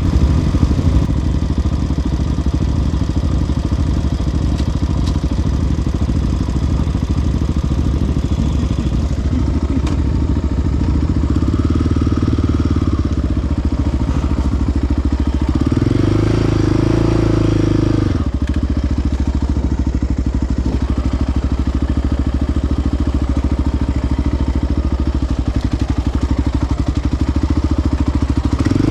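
Single-cylinder four-stroke sport ATV engine running steadily, opened up louder for about two seconds a little past the middle.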